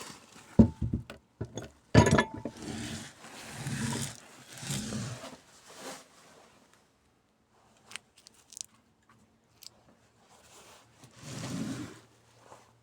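Handling of loose metal engine parts. Two sharp clanks, the first about half a second in and a louder one about two seconds in, are followed by scraping and rustling, then a few light clicks and a last scrape near the end.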